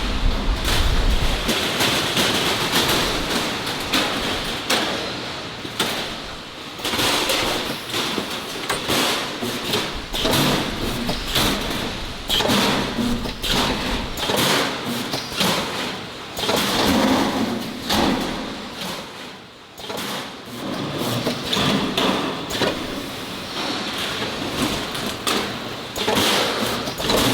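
Irregular knocks, clatter and scraping from work with steel and concrete at a precast concrete plant, over a steady noisy background, with a low rumble in the first second or so.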